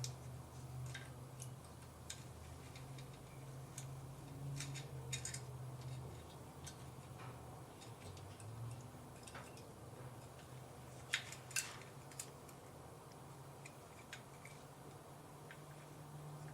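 Small irregular clicks and taps from parts being handled as a condenser and its leads are fitted into a GM HEI distributor, with two sharper clicks about eleven seconds in. A faint steady low hum sits underneath.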